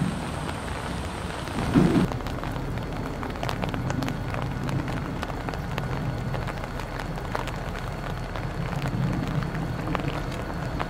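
Steady rain falling, with scattered drops ticking close by, over the low rumble of an approaching diesel freight locomotive. A dull thump about two seconds in.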